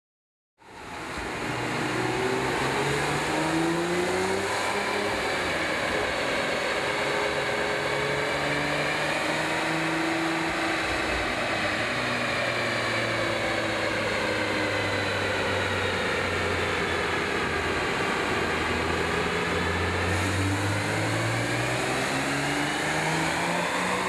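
Porsche 987.2 Boxster Spyder's flat-six engine running on a dyno through a Fabspeed Supercup race exhaust, its pitch slowly rising and falling. The sound starts abruptly about half a second in.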